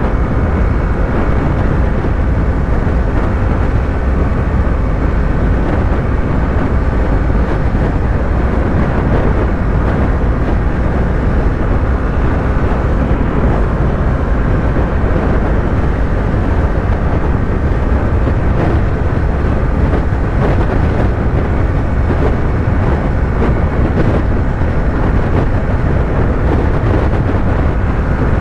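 Yamaha YZF-R3 parallel-twin motorcycle at steady highway cruise, engine and wind rushing over the rider's microphone in one unbroken drone.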